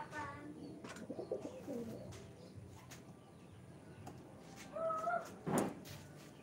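Domestic pigeons cooing low and wavering in their coop, with a brief higher call near five seconds and a short, sharp burst of noise just after it.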